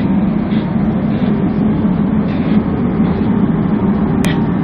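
Steady low rumble of a moving vehicle, engine and road noise without a break.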